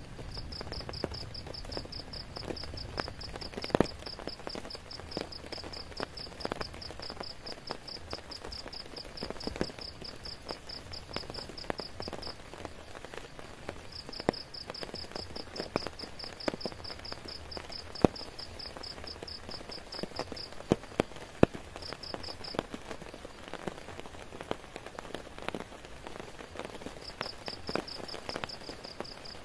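Steady rain with many individual drops tapping sharply close by. Over it an insect keeps up a high-pitched, rapidly pulsing trill that breaks off about twelve seconds in, resumes, stops again, gives a short burst and starts up once more near the end.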